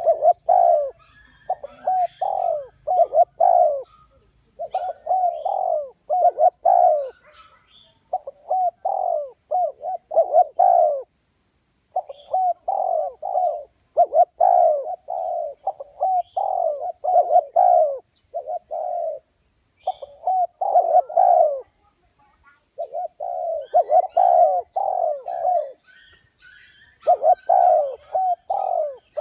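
Spotted dove cooing: short, low coo notes repeated in runs of three to six, with brief pauses between runs. This is the call used as a lure to draw wild doves to a trap. Faint higher chirps from small birds sound in the background.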